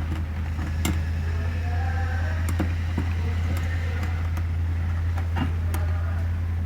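A steady low hum under light metallic clicks and taps, a handful of them, the sharpest about a second in, from small two-stroke engine parts (piston, ring and cylinder) being handled during assembly.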